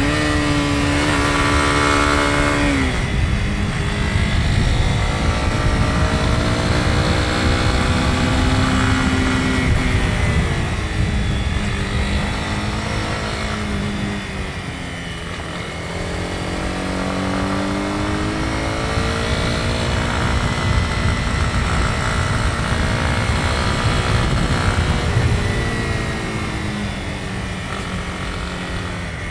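Honda CB250R's single-cylinder engine under way, its pitch climbing and falling as the bike speeds up and slows, with a sudden drop about three seconds in like a gear change. Wind noise rumbles underneath.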